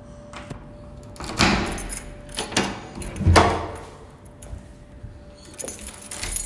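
A handful of sharp knocks and bumps, the loudest about three seconds in, over a faint steady hum.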